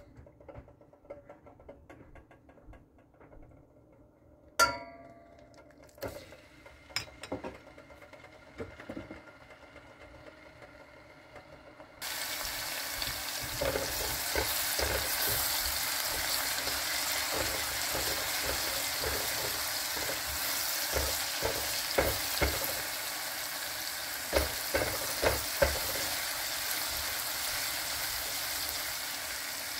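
Chopped garlic and coriander sizzling in olive oil in a stainless-steel pot as a silicone spatula stirs them, with occasional taps and scrapes; the sizzle starts suddenly about twelve seconds in. Before that the pot is quiet apart from light clicks and one sharp ringing metal clink.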